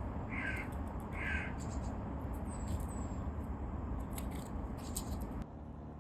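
A crow cawing twice, harsh calls about a second apart, over steady low background noise. Scattered faint clicks and a brief high thin chirp follow, and the background noise drops suddenly near the end.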